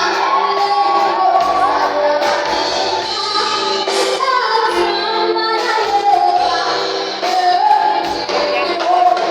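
A song performed with voices singing the melody over instrumental accompaniment.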